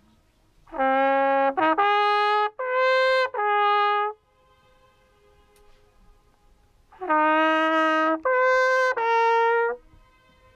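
A brass horn plays two short phrases of held notes, played for the lake's famous echo. The first phrase has five notes; after a pause of about three seconds comes a second phrase of three notes. Fainter returning tones hang in the pauses between them.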